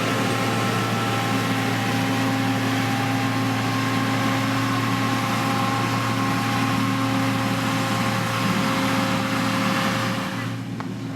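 Diesel engine of a heavy road-construction machine running steadily at a constant pitch, with a loud hiss over it. Near the end the hiss drops away suddenly and the sound gets quieter.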